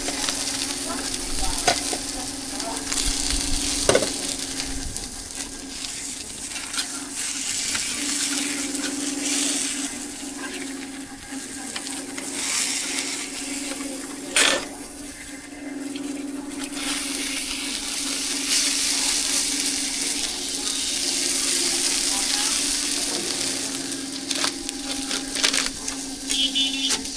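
Food frying and sizzling in hot oil with a steady hiss. A steady low hum runs underneath, and a few sharp utensil clicks come about 4 and 14.5 seconds in.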